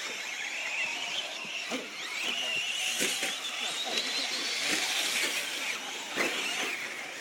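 Traxxas electric RC short course trucks racing: a high motor whine rising and falling in pitch with the throttle, over a steady hiss.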